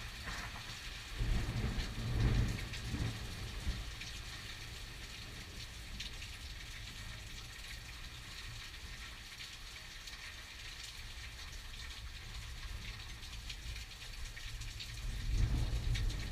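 Steady rain hissing, with low rumbles of thunder about a second in that last a couple of seconds, and another rumble building near the end.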